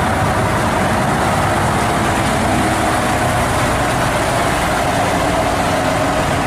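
Heavy diesel engine of a cement mixer truck running steadily.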